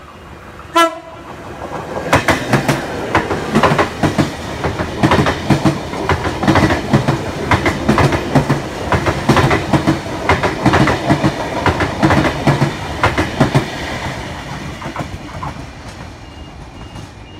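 NSW V-set double-deck intercity electric train passing through the station at speed: one short horn blast about a second in, then its wheels clacking rhythmically over the rail joints and points over a steady running rumble, which fades away near the end as the train leaves.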